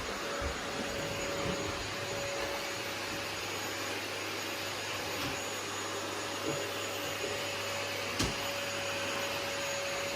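Household vacuum cleaner running steadily: a constant rush of air with a steady whine from its motor, and one sharp click about eight seconds in.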